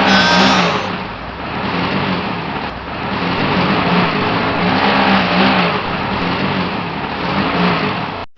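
A small motor running steadily with a rough, noisy grinding sound, its pitch wavering up and down.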